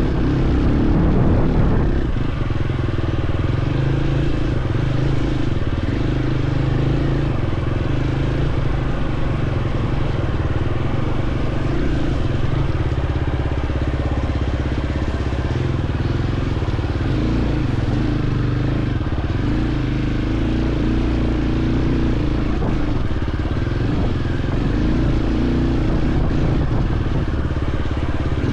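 Dirt bike engine running steadily while riding along a trail, its pitch shifting a little with the throttle. It is slightly louder in the first couple of seconds.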